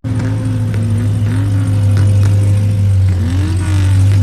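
A car engine running steadily with a constant low note.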